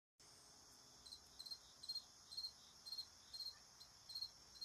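Crickets chirping faintly: short chirps of a few quick pulses, about two a second, starting about a second in, over a steady high-pitched hum.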